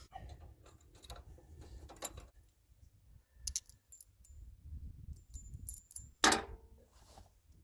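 Light metallic clinks and clicks of steel tiller mounting parts being worked into place on a garden tractor, with one louder knock a little over six seconds in.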